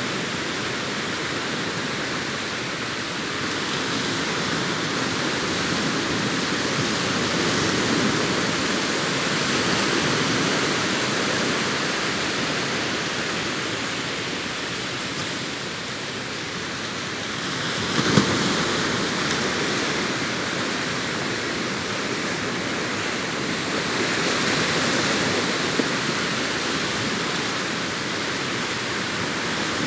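Sea waves breaking and washing up the beach: a continuous rush of surf that swells and eases every several seconds, with a brief sharp splash about 18 seconds in.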